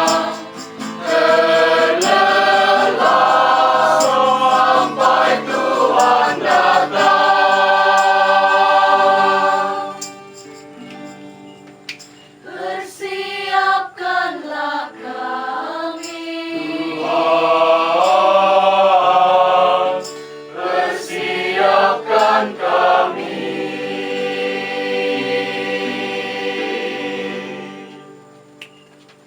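A choir singing in harmony, in long held phrases broken by short pauses, fading away near the end.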